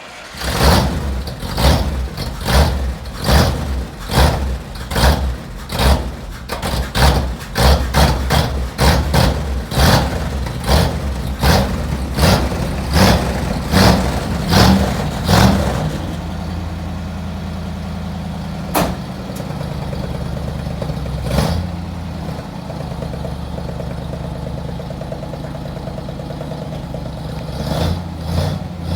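Engine cold start: it catches right away and runs rough and uneven, with loud irregular pulses, for about sixteen seconds. It then settles into a steady idle, with a sharp click a few seconds later and a brief rise in engine speed near the end.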